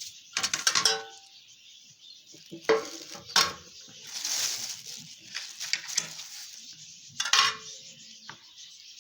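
Cuttlefish bones being put into a bowl of boiling water, knocking and clinking against the dish with a short ring after each knock. A brief hiss comes about four seconds in.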